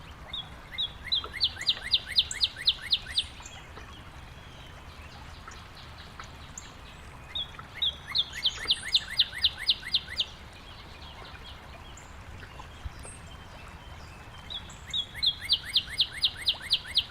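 A songbird singing the same song three times, about seven seconds apart: each song is a few spaced opening notes followed by a fast, even trill of about a dozen notes. A steady low background noise runs underneath.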